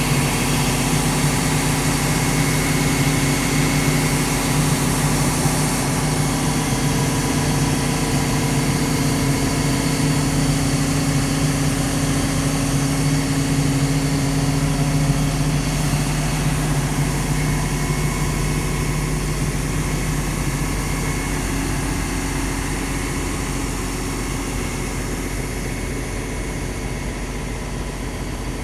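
Cummins diesel engine of a Liugong crawler excavator running steadily. Its low note shifts about halfway through, and the sound eases off slightly near the end.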